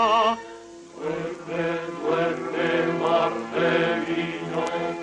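Song from a 1955 film soundtrack: a sung note with vibrato ends about half a second in. Then, from about a second in, voices chant short repeated phrases over a steady accompaniment.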